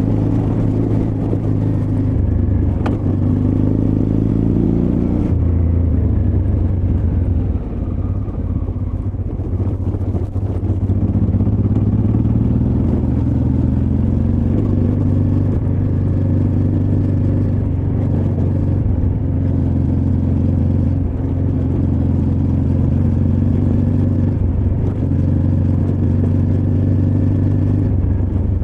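Honda Transalp XL600V's V-twin engine running under changing throttle while riding an off-road trail, heard from a mic in the rider's backpack. The engine note shifts several times in the first ten seconds, then holds steadier.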